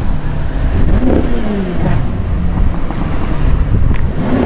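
Audi RS6 engines and exhausts running loud, with a steady deep rumble; cars drive past close by about a second in and again near the end.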